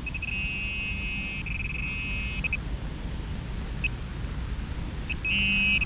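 Metal detector sounding a high, steady electronic tone for about two seconds, then a few short blips and a second loud tone near the end, on a target that turns out to be a bottle cap. Wind rumbles on the microphone underneath.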